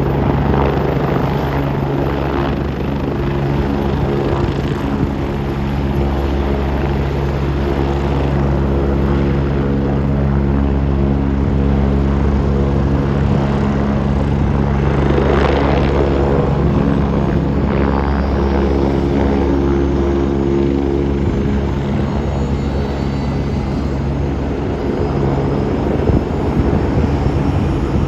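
Turbine helicopter running: a steady engine and rotor drone with a thin high whine, and faint rising tones joining near the end.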